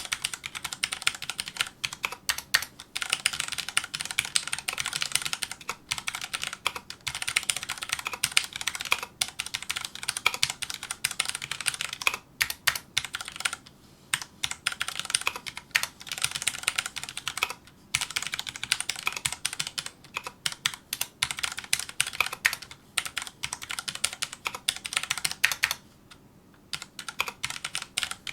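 Fast, continuous typing on a Filco Majestouch2 mechanical keyboard with Cherry MX Brown switches: a dense run of key clicks and clacks, broken by a few brief pauses and a longer pause of about a second near the end.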